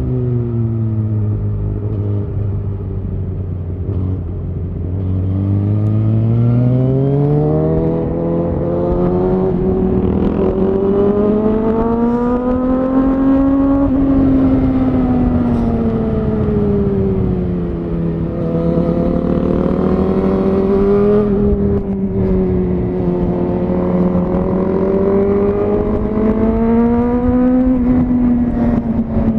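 Suzuki GSX-R1000R's inline-four engine through a Yoshimura R-11 SQ exhaust, running under way as the bike is ridden. The revs hold low at first, climb smoothly to a peak about halfway through, fall back, then rise and ease again near the end.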